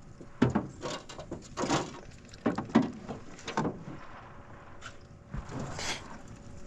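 Irregular knocks and bumps against a canoe, about half a dozen over the first four seconds, then a short hiss of noise near the end.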